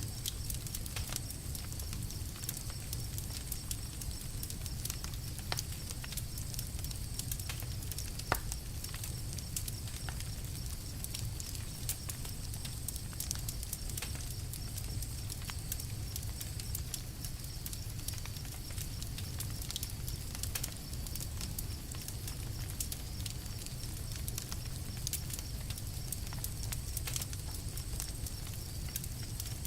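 Campfire crackling: scattered sharp pops and snaps over a steady low rumble of burning.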